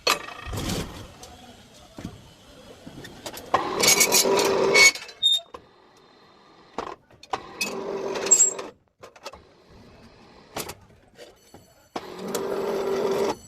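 Electric steel-bar bending machine running in several short bursts of a second or so each as it bends a bar into a ring, with a steady hum while it turns and sharp metal knocks between the runs.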